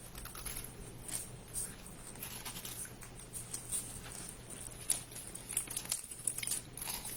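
Plastic snack-bar wrapper crinkling and crackling in irregular bursts as it is torn open and handled.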